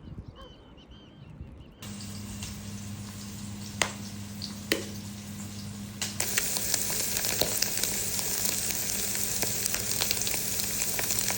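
Rain falling: a steady hiss with scattered sharp drop clicks that starts suddenly about two seconds in, then grows louder and denser about six seconds in, with a low steady hum underneath.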